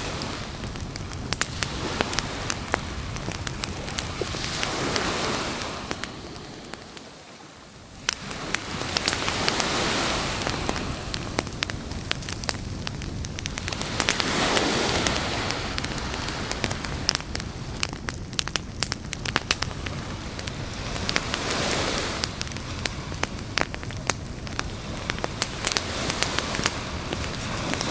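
Beach campfire crackling with frequent sharp pops, over a steady rush of surf that swells every few seconds. The sound sinks briefly about six to eight seconds in.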